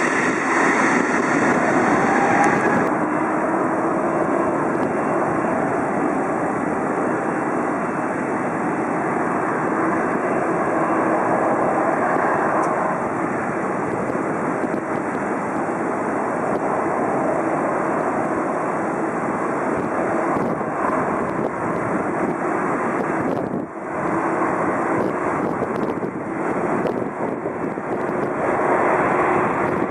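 Jet airliner engines running, a steady broad rushing noise that dips briefly about three-quarters of the way through and swells again near the end.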